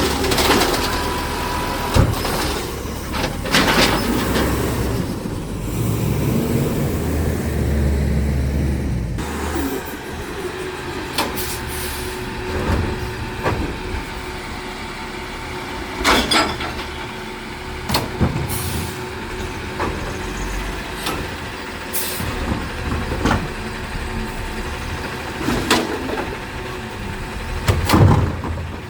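Garbage truck at work: a diesel engine running with a heavy low rumble that eases off about nine seconds in, broken by several sharp bangs and hisses, the loudest near the start and near the end.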